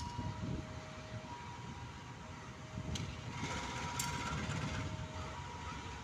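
Diesel-electric locomotive running with a low rumble as it pulls passenger coaches slowly through the station. Over it, a railway level-crossing warning alarm sounds two alternating steady tones, high then low, about a second each. About three and a half seconds in, a brief swell of hiss.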